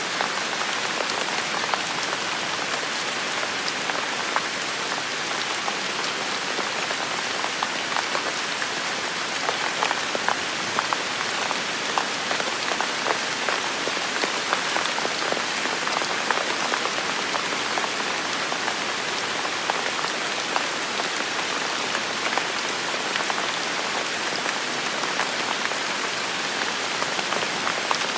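Steady heavy rain, a dense hiss with many close individual drops pattering on surfaces.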